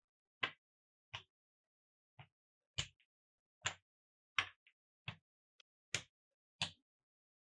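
Marbles clacking against a wooden marble run track, about nine short, sharp clicks at uneven intervals with silence between them.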